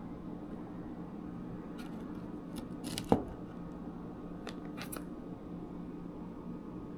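A few short rustles and clicks of handling, the loudest a single sharp click about three seconds in, over a steady low hum.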